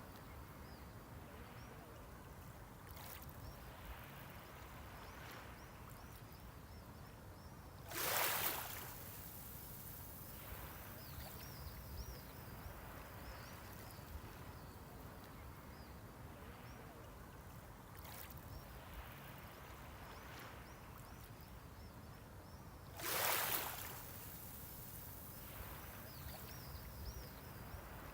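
Small sea waves breaking on the shore twice, about fifteen seconds apart, each a short rushing surge, with a soft steady wash between them.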